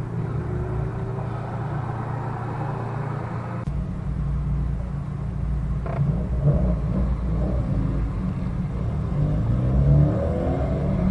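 A car's engine and road noise heard from inside the cabin through a dashcam. The sound changes abruptly at an edit about four seconds in, and near the end the engine note rises in pitch as the car accelerates.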